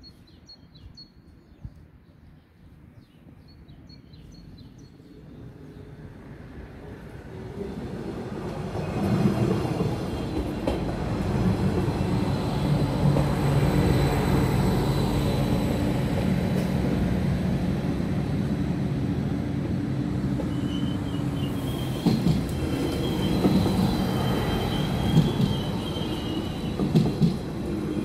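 Diesel Stadler GTW railcar approaching and running past close by. Its engine drone grows over the first several seconds, then holds loud and steady with track noise. A high squeal comes and goes over the last several seconds.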